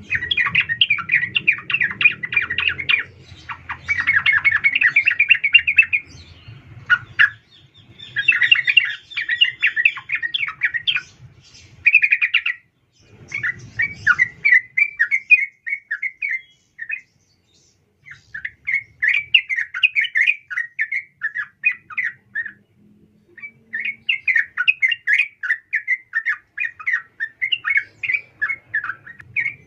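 Female yellow-vented bulbul (trucukan) calling: phrases of rapid, bubbly chattering notes, repeated with short pauses, the kind of call used as a lure to rouse male bulbuls into song.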